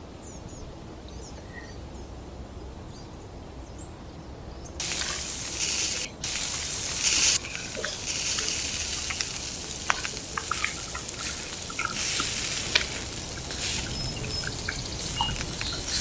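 Liquid hissing and splashing that starts suddenly about five seconds in, with small pops and drips through it, like beer being poured into the braising pot. It follows a few seconds of faint bird and insect background.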